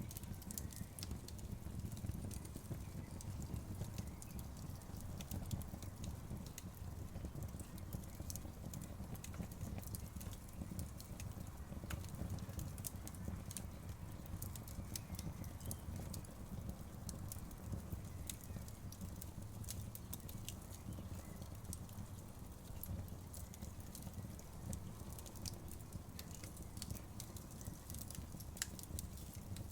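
Outdoor wood fire burning, with a steady low rumble and many scattered sharp crackles and pops.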